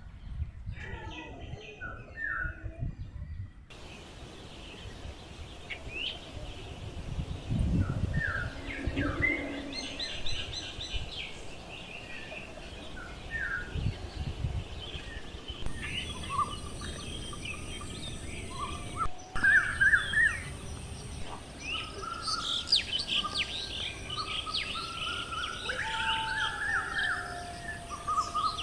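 Birds chirping and calling outdoors, many short overlapping chirps and trills that grow busier in the last third, over a low rumble.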